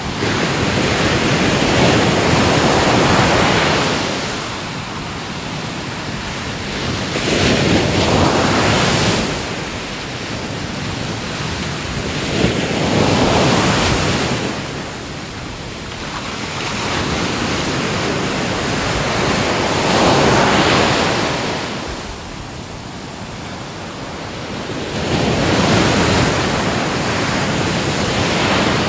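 Ocean waves breaking on a shore, each one a rushing swell of surf that builds and washes away, five in all, roughly every five to six seconds.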